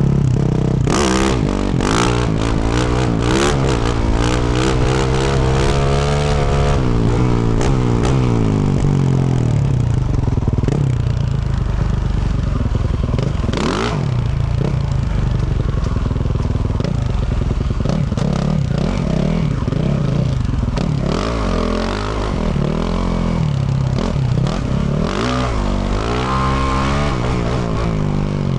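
2024 Yamaha YZ450F's single-cylinder four-stroke engine through a Yoshimura RS-12 exhaust, revving up and down with the throttle while being ridden, its pitch climbing in sweeps. Sharp clacks and knocks over the engine in the first few seconds and a single loud knock about halfway through.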